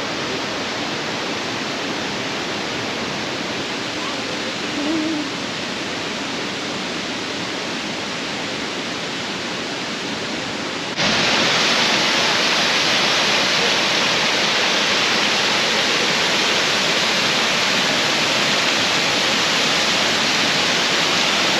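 Mackenzie Falls waterfall rushing, a steady roar of falling water. About halfway through it turns suddenly louder and brighter.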